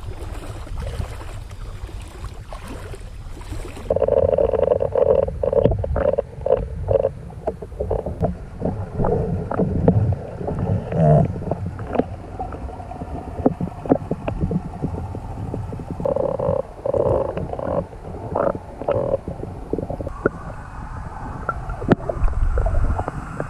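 Wind rushing on the microphone for the first few seconds, then, after a sudden change, a chorus of frogs calling with rapid clicking croaks that comes and goes in rounds.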